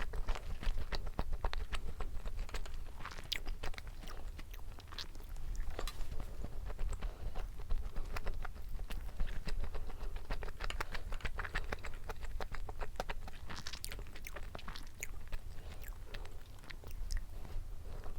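A person chewing food close to the microphone: an irregular run of many small, sharp clicks.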